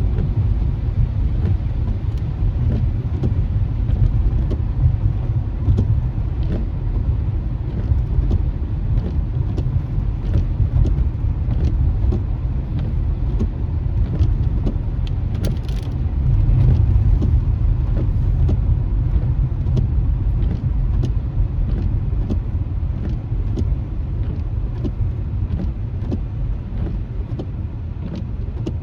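Low, steady rumble of road and engine noise inside a moving car's cabin on wet pavement, with frequent light ticks of rain hitting the windshield.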